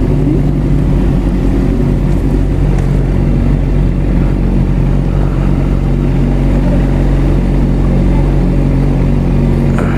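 Suzuki GSX-R600 inline-four motorcycle engine running steadily at idle, its pitch holding level.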